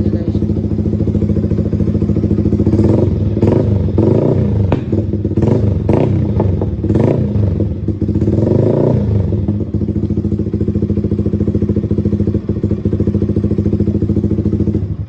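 Yamaha R15 V3's 155 cc single-cylinder four-stroke engine running through an aftermarket SC Lingga exhaust. It idles steadily, is blipped in a string of quick revs that rise and fall over several seconds in the middle, then settles back to idle.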